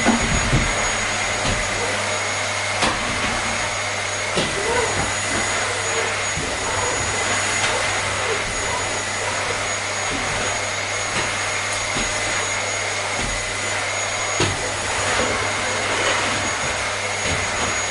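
Vacuum cleaner running steadily: an even rushing noise with a thin high whine held on one pitch and a low hum underneath, broken only by a few faint knocks.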